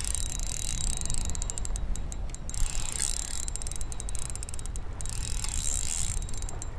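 Spinning fishing reel clicking in quick runs with pauses between them as a hooked bass is fought and reeled in, over a low wind rumble.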